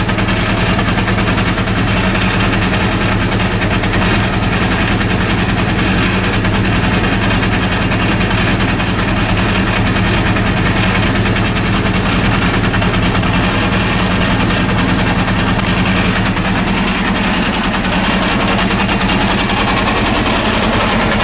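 Rebuilt Honda CB400 inline-four engine running steadily at idle, with a strange noise coming from the left side of the engine that the owner cannot explain.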